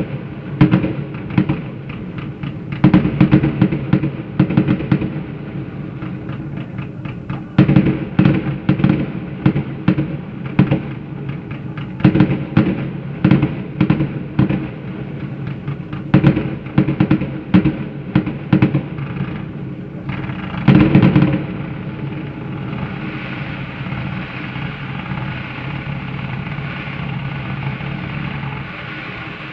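Fireworks salute going off in volleys of rapid booms and bangs, each volley a couple of seconds long and a few seconds apart. The last volley comes about three-quarters of the way through, then a steady drone remains.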